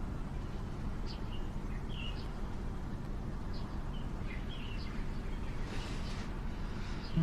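Outdoor ambience: small birds chirping here and there over a steady low background noise, with a brief hiss about six seconds in.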